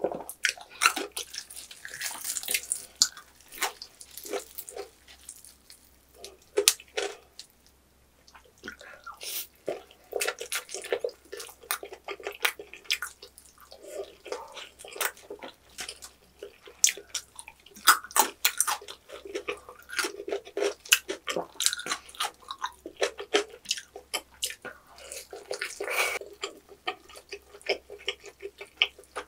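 Close-miked chewing of roast pork knuckle (Schweinshaxe): wet, sticky mouth sounds with many small sharp clicks, pausing briefly about a quarter of the way through.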